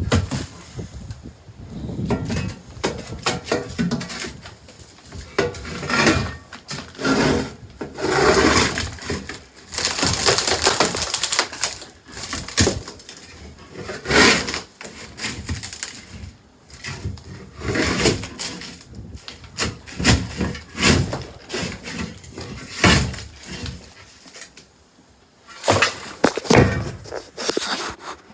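Irregular knocking, cracking and scraping of hand work, with sharp impacts now and then and pauses between bursts.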